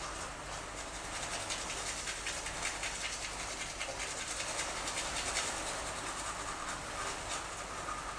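Rain falling steadily in a rainstorm, a dense even patter of many small drop impacts.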